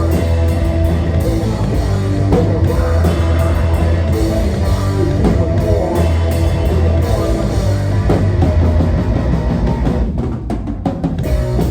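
Live rock band playing an instrumental passage with electric guitar, bass and drum kit, loud and dense. About ten seconds in the cymbals and drums fall away and the sound thins for a moment before the band comes back in.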